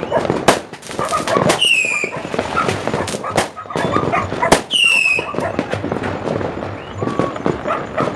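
Fireworks and firecrackers going off in a rapid, irregular string of sharp bangs and cracks. Two short high whistles, each falling slightly in pitch, come about one and a half and four and a half seconds in.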